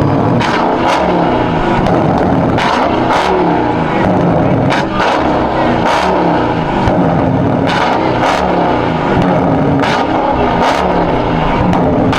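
Car engines revving up and down over and over, with short sharp cracks every second or so.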